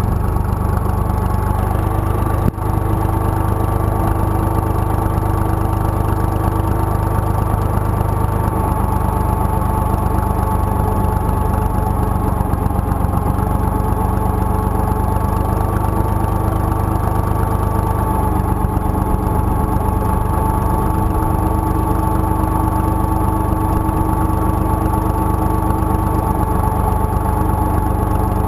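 IMT 2050 tractor's 55 hp engine running steadily at a constant speed, with a steady higher whine over the engine note.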